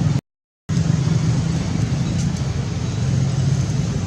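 Steady road-traffic rumble of passing vehicle engines, cut off by a brief total dropout to silence just after the start.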